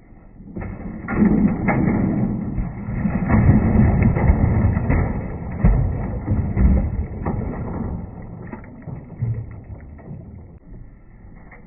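Marbles rolling and clattering through the PVC pipe and rain gutters of a water marble run: a rumble full of knocks that starts about half a second in and dies down after about eight seconds.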